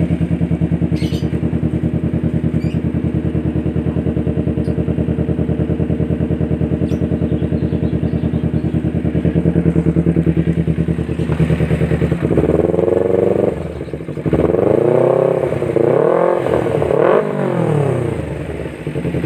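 Kawasaki Ninja 250 FI's parallel-twin engine breathing through a Pure Sound R9 H2 titanium exhaust on a Prospeed header, idling steadily, then revved in several quick blips of the throttle over the last seven seconds or so.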